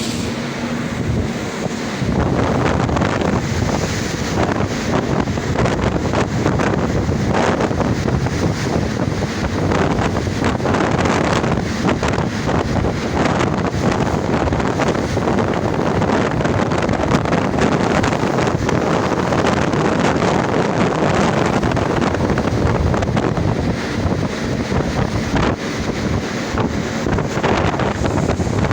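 Wind blowing hard over the microphone, with the rush of sea water past a cruise ship under way.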